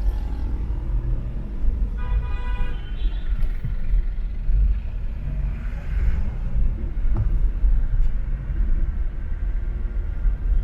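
Steady low rumble of road traffic on an expressway, with a car horn honking briefly about two seconds in.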